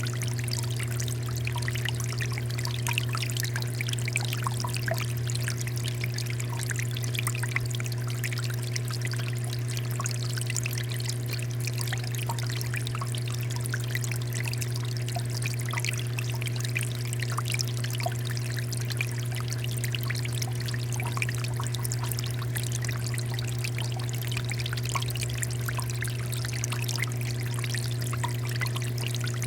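Water fountain pouring and splashing steadily, many small droplets pattering over an even rush, with a steady low hum underneath.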